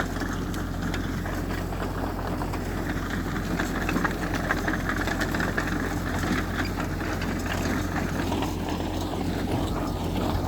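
A heavy diesel earthmoving machine's engine runs steadily, with scattered small clicks and knocks over it.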